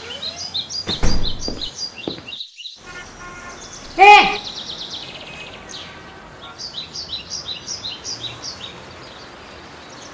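Birds chirping in short, repeated calls. A thump comes about a second in, and a short, loud sound falling in pitch comes about four seconds in.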